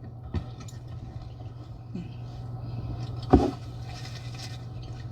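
A steady low hum with a light click early on and a single sharp knock about three seconds in, with faint rustling around it.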